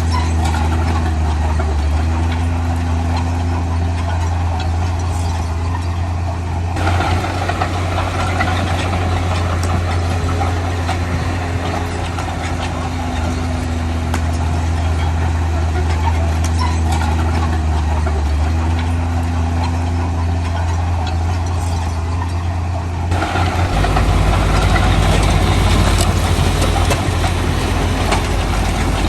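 Heavy diesel engine of earthmoving machinery running steadily. The sound changes abruptly about seven seconds in, and again about six seconds before the end, where it gets a little louder.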